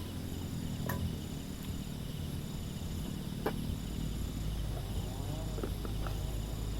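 Insects chirping in short, high, repeated trills over a steady low rumble, with two sharp clicks about one and three and a half seconds in.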